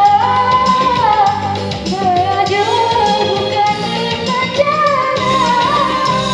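A solo singer, most likely a woman, singing a held, gliding melody with vibrato over a backing track with a steady beat.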